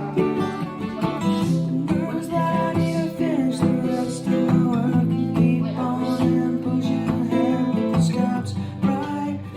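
Acoustic guitar being strummed and played, steady music throughout.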